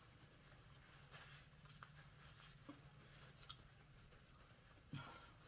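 Near silence with a few faint, scattered clicks and a soft knock near the end: quiet eating of a crawfish seafood boil.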